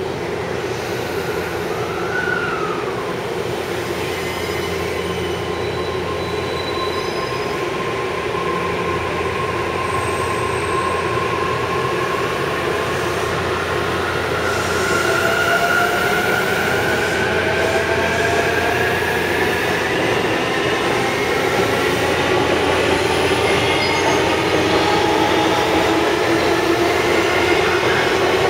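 183 series electric train rolling through the station, a steady rumble that grows slowly louder. Thin wheel-squeal tones glide up and down over it, mostly in the second half.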